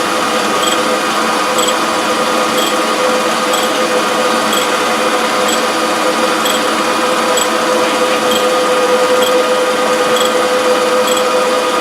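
Surface grinder running idle with its hydraulics on, not grinding: a steady motor and pump hum with a faint tick about once a second.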